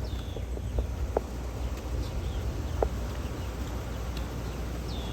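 Steady low hum of running outdoor air-conditioner and heat-pump units, with a few short sharp clicks and faint high bird chirps.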